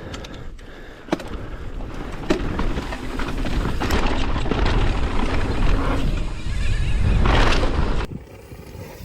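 A mountain bike being ridden fast down a dirt trail: wind buffets the mic, tyres rumble over the dirt and the bike rattles and knocks. It grows louder over several seconds and drops off suddenly about eight seconds in.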